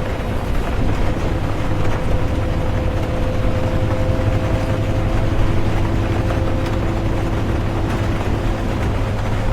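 Inside a moving bus: a steady low engine and road rumble with a constant whine, mixed with the hiss of rain.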